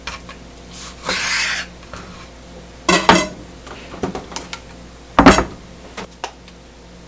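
Kitchenware being handled: a short scrape about a second in, then a few sharp clatters of dishes or pans, the loudest about five seconds in.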